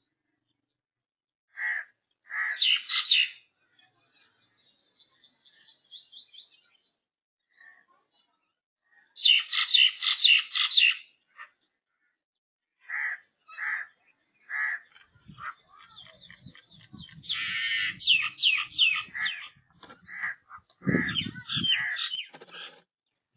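Birds calling: short single calls, dense chattering bursts, and runs of fast, high, sliding chirps at several notes a second. A lower sound joins near the end.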